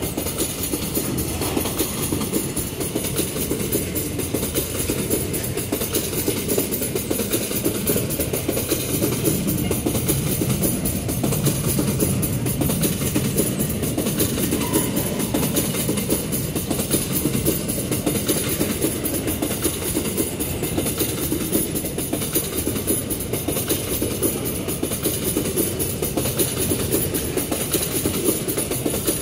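Empty steel ore gondola wagons rolling slowly past close by: a steady rumble and clatter of steel wheels on the rails.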